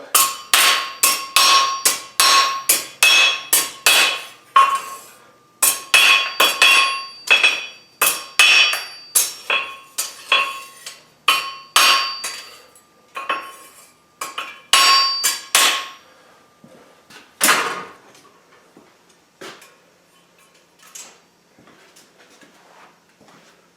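A hammer strikes a flatter set on a mild-steel plate on the anvil, flattening the plate, at about two ringing blows a second. The hammering pauses briefly near 5 s and stops about 16 s in, with a few single strikes after.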